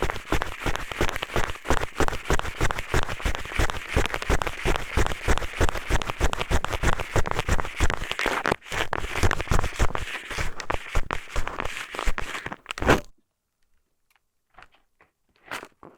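Eyeglasses used as an ASMR ear pick, scraped and rubbed against a microphone's ear: a dense run of crackly scratching strokes that cuts off suddenly about 13 seconds in, followed by a few faint strokes.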